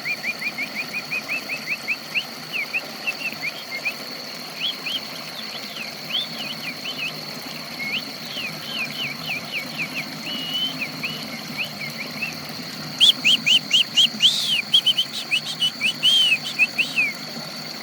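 A songbird singing in quick runs of sharp chirps and short trills, getting louder and busier in the last few seconds, over a steady high-pitched tone. This is a bird that had stopped singing, singing again after water therapy.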